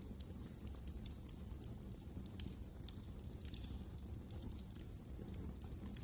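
Wood fire burning in a fireplace, crackling with many small irregular snaps and pops over a steady low rumble.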